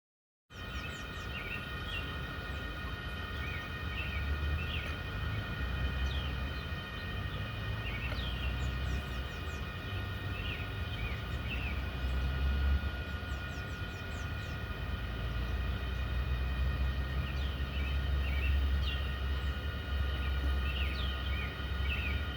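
Small birds chirping in short, repeated calls over a steady low rumble and a few steady high tones.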